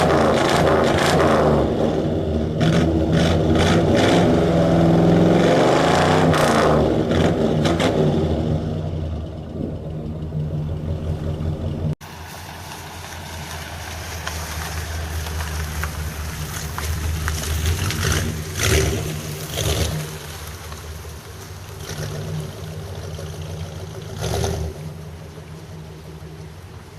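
Chevrolet Caprice V8 engine running and being revved, loud for the first several seconds and then easing off. The sound breaks off abruptly about twelve seconds in and picks up again quieter, with a few short rises in engine speed.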